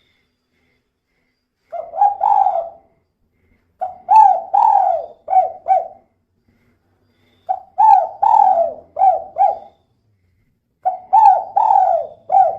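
Spotted dove, a female, cooing: four call phrases a couple of seconds apart, each a short lead note followed by three or four mellow coos, the last phrase running on past the end.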